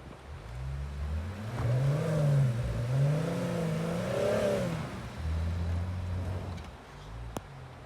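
Jeep engine revving up and down twice, then dropping back to a steady low running. It is working to get a Jeep free in snow.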